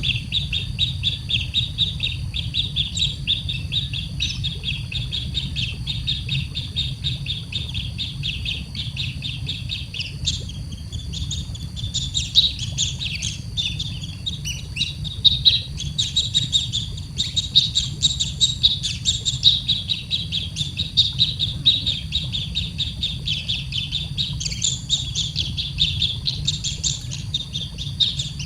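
Baby bird chirping rapidly and without a break, a dense run of high, thin cheeps several a second, the insistent calling of a chick wanting to be fed. A low steady rumble sits underneath.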